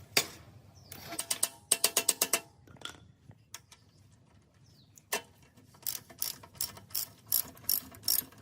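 Ratcheting metal clicks: a quick run of clicks in the first couple of seconds, a short pause, then a steady series of about three clicks a second toward the end.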